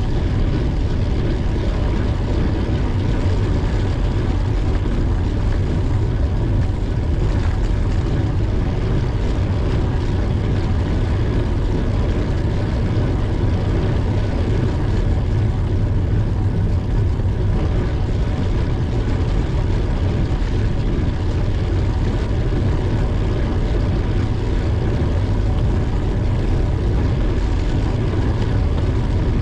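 Steady wind rumble and road noise on a bicycle-mounted camera's microphone while riding, heaviest in the bass and unbroken throughout.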